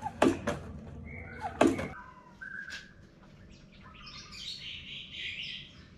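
Birds chirping: a few sharp chirps in the first two seconds, then a softer, high twittering in the second half.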